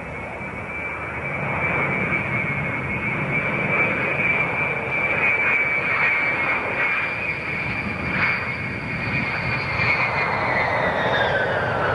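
Airliner's engines passing, with a loud rushing noise and a steady high whine; the whine drops in pitch near the end as the aircraft goes by.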